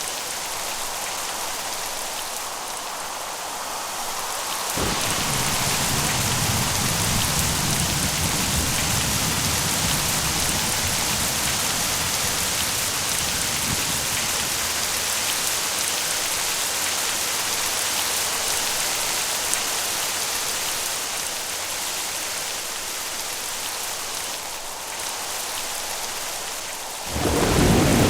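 Thunderstorm: steady heavy rain with a thunderclap about five seconds in that rumbles on for well over ten seconds. A second, louder clap breaks near the end.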